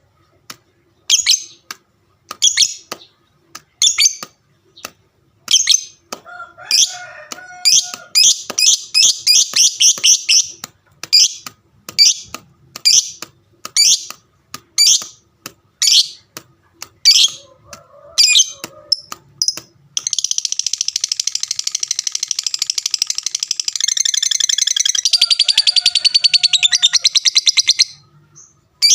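Lovebird calling in sharp, high chirps about once a second, with a quicker run of chirps a third of the way in. About two-thirds of the way through it breaks into a long, unbroken, fast chattering trill lasting some eight seconds: the 'ngekek panjang' long song of a competition lovebird.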